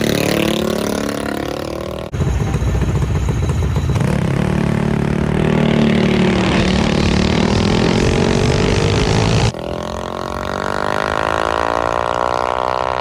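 Mini drag bike engine running and revving across several spliced shots, its pitch climbing and falling, with abrupt cuts about two seconds in and again near the end.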